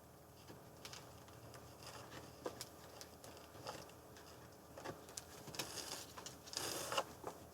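Packaging and comic books being handled: faint rustling and crinkling with small taps and clicks, and a longer rustle near the end.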